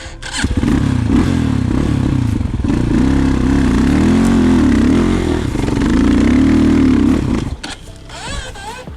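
Enduro motorcycle engine pulling hard uphill under load, the revs rising and falling with the throttle for several seconds, then dropping off near the end. The bike is climbing the slope in second gear.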